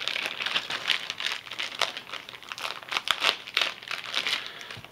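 Packaging crinkling as it is opened by hand.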